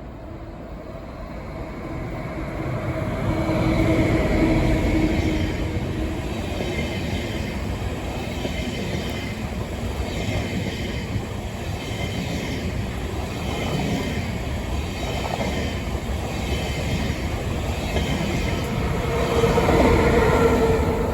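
A train running on rails, with a regular clatter of wheels over rail joints about once a second and faint high wheel squeal. It swells louder twice, about four seconds in and near the end.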